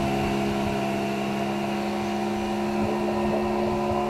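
Outboard motor running at a steady, even pitch, with no revving.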